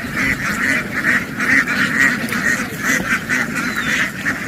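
A flock of farm ducks quacking all together in a loud, continuous, overlapping din.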